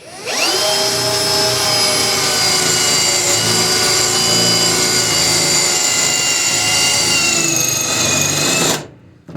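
Electric drill spinning up and drilling out a spot weld in sheet steel, a steady whine that sags slightly in pitch near the end and cuts off after about eight and a half seconds.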